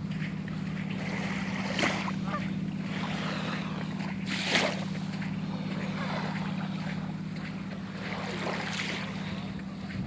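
Waterside outdoor sound: a steady low hum under wind noise on the microphone, with two brief sharp sounds, one about two seconds in and a louder one about four and a half seconds in.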